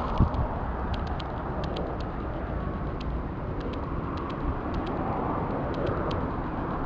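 Steady low outdoor rumble, like distant traffic and wind on the microphone, with faint, irregular high-pitched ticks scattered through it.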